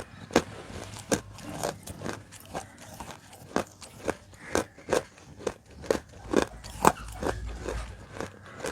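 Close-miked chewing of roasted Nakumatt edible clay: sharp, dry crunches about twice a second.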